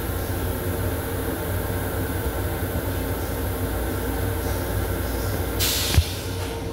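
M7 electric railcar running, heard from inside its restroom: a steady low rumble with a steady hum. Near the end comes a short hiss of air, cut off by a sharp knock.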